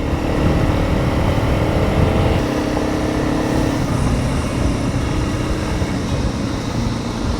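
Honda CRF 300 Rally single-cylinder motorcycle engine running steadily under way, with wind noise on the helmet microphone.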